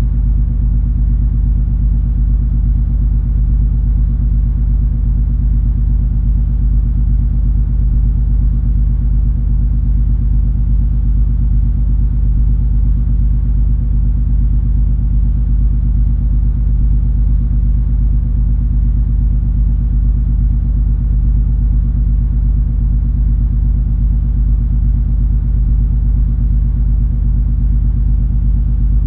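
Steady low drone of the MS Color Fantasy cruise ferry's diesel engines under way, felt through the ship as a deep rumble with several unchanging hum tones.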